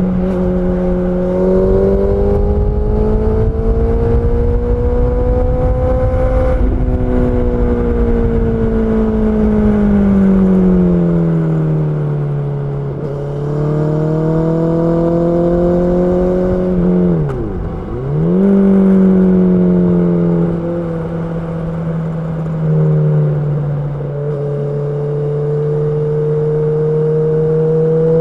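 Honda CB650R's inline-four engine running under way, its revs rising slowly for the first few seconds and then easing off. It holds steady, dips sharply and picks up again about two-thirds of the way through, then climbs a little near the end.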